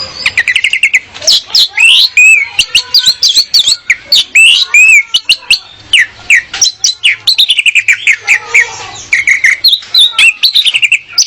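Female orange-headed thrush singing: a fast, unbroken run of varied whistled phrases and chirps, many sliding up or down in pitch, mixed with sharp clicking notes.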